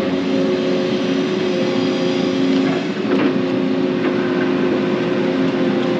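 Excavator's diesel engine running steadily, with a brief clatter about three seconds in.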